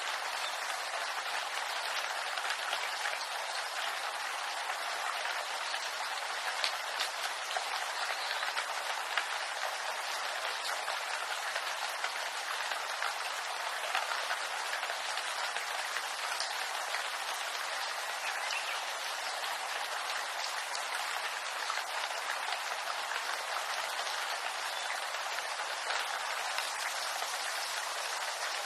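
Steady rain pattering on bamboo leaves, a dense even hiss of many small drop ticks.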